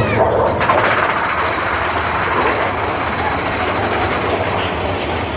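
Big Thunder Mountain Railroad's mine-train roller coaster running along its track, heard from aboard: a steady, dense rumble of the train on the rails, growing louder a little under a second in.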